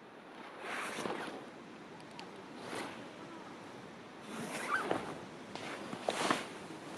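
Wood campfire burning: scattered crackles and small pops over a rushing hiss that swells up four times.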